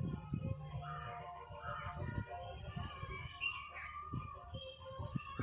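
Birds chirping: a run of short calls and quick sweeping notes, with some steady tones underneath.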